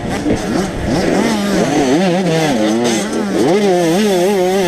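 85cc two-stroke motocross bike engines revving, the pitch rising and falling again and again as the throttle is worked, with sharp rises about a second and a half in and again past three seconds.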